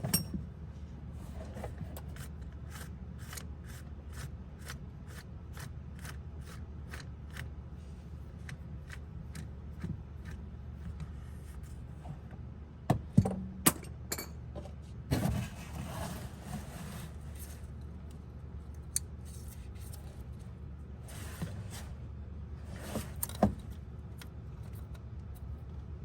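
Ratchet wrench clicking in an even run of about three clicks a second on the crank position sensor's 10mm bolt, then a few sharper metallic clanks of tools. A steady low hum runs underneath.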